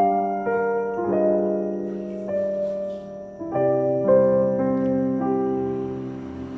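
Background piano music: slow, gentle notes and chords that ring and fade.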